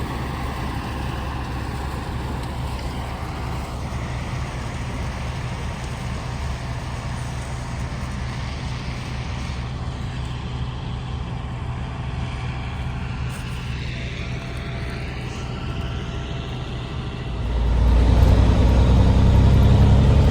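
A motor vehicle running steadily, with an even engine hum and road noise. The engine gets markedly louder about seventeen seconds in.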